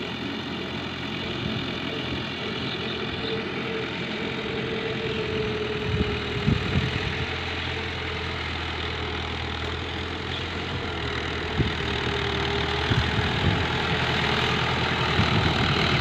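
A 640 tractor's diesel engine running steadily while working a laser land leveller, with a few short knocks about six seconds in and again near the two-thirds mark.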